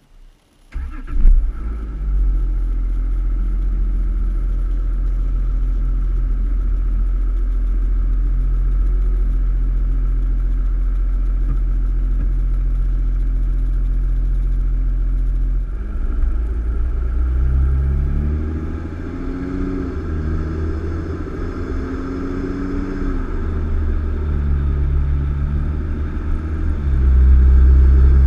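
2014 VW Touareg engine, heard from a camera mounted at the front of the car. It comes in with a brief loud surge about a second in and then runs steadily. From about halfway its pitch rises and falls as the car drives, and it is loudest near the end.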